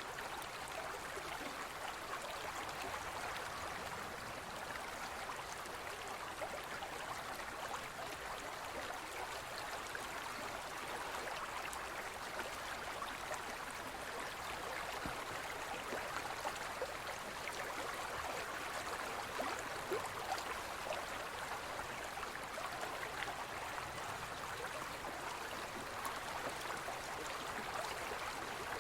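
Forest stream flowing steadily over rocks, an even rush of water with small splashes and gurgles throughout.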